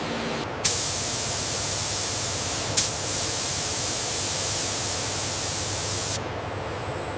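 A loud pressurised spray hissing, switching on abruptly about half a second in, with a brief break near the three-second mark, and cutting off about six seconds in.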